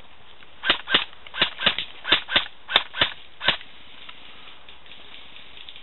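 Airsoft gun firing about ten sharp single shots in quick succession, some in pairs, over about three seconds, then stopping.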